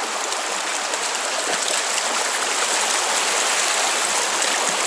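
Stream water rushing steadily, an even hiss.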